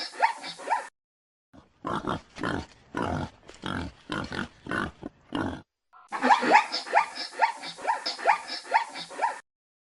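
Pigs vocalising: runs of short squeals that fall in pitch, about four or five a second, near the start and again after about six seconds, and in between a series of about ten short, rough grunts.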